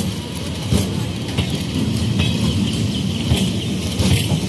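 Indian Railways electric multiple unit (EMU) local train coaches rolling past close by: a steady rumble with several sharp clicks.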